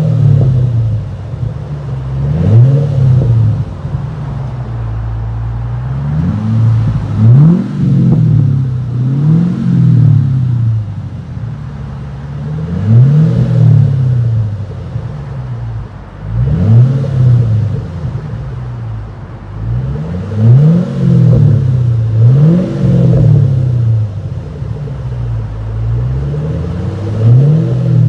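2008 Ford Mustang GT's V8 through a Street Demon muffler true dual cat-back exhaust with an X-pipe, idling and being revved in repeated quick throttle blips that climb sharply and drop back to idle, about a dozen times, with a deep throaty tone.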